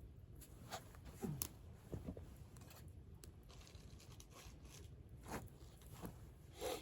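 Campfire crackling faintly with irregular pops and snaps. The loudest come about a second and a half in and near the end.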